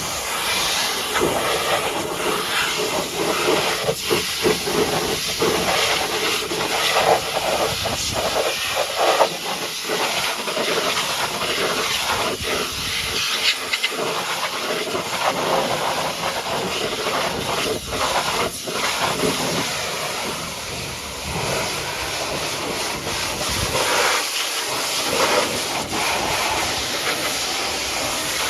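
High-pressure water jet spraying mud off a dump truck: a steady, loud hissing spray that wavers in level, with a few brief dips.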